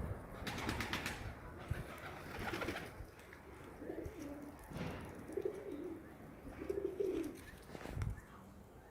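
Pigeons cooing: a few low, wavering coos in the second half, with brief rustling sounds near the start.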